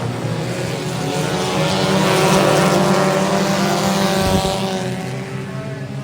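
Race car engines running hard on a dirt oval, growing louder to a peak about two seconds in and then fading as the cars pass, over a steady low engine drone.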